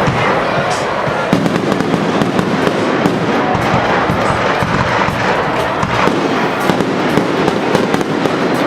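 Aerial fireworks going off in quick succession: a dense, unbroken run of bangs and crackling.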